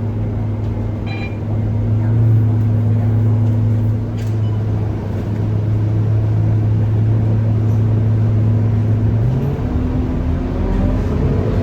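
Scania K230UB city bus engine running at a steady pitch, then about nine seconds in the note changes and a rising whine builds as the bus accelerates.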